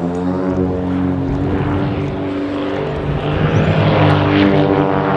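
Pitts Special aerobatic biplanes' 260 hp, 540-cubic-inch six-cylinder engines and propellers running at power in a climbing manoeuvre. The engine note wavers and shifts in pitch about two seconds in, then settles again.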